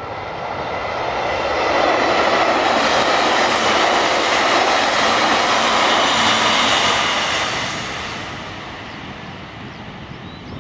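An electric train passing at speed. The rush of wheels on rail swells over the first two seconds, holds loud for about five seconds with a few steady tones in it, then fades away.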